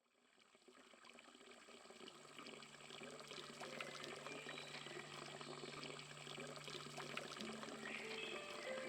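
Running, trickling water fading in, with scattered small ticks and a low steady hum that comes in about two seconds in.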